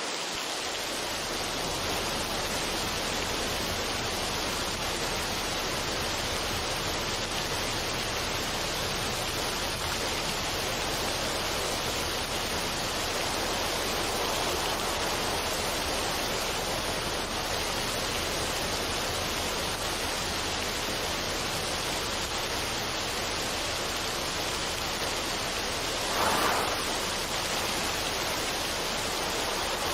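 Steady, even rushing noise of a relaxation ambience track, with a brief swell about 26 seconds in.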